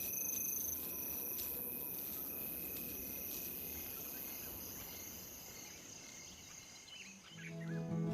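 Crickets and other insects chirring steadily, with a constant high-pitched drone that slowly fades. Music with mallet-like notes comes in right at the end.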